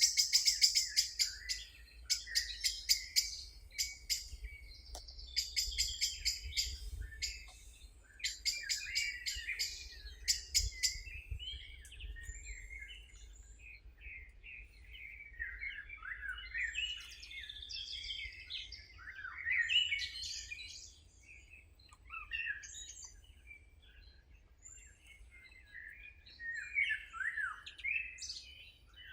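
Wild songbirds singing: rapid series of fast, dry, high notes through the first several seconds, then varied chirps and warbled phrases that slide up and down in pitch.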